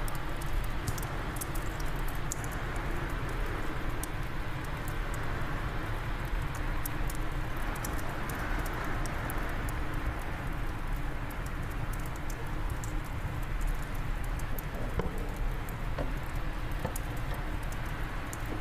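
Wood fire crackling in a fireplace, many small irregular pops and snaps, over a steady low rumble of wind.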